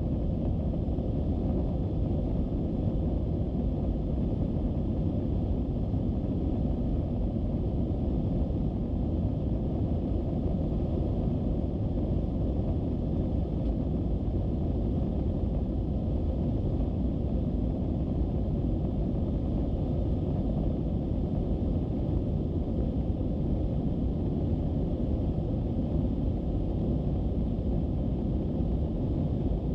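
Airbus A321-200 airliner noise: a steady low rumble of engines and airflow with a faint steady hum, unchanging in pitch and level.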